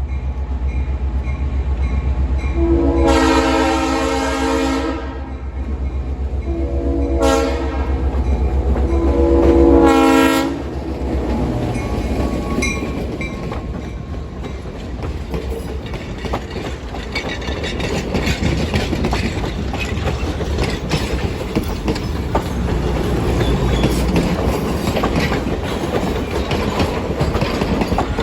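EMD GP9 diesel locomotive sounding its horn three times, long, short, long, over the low drone of its engine, then the train rolling past with wheels clicking over the rail joints.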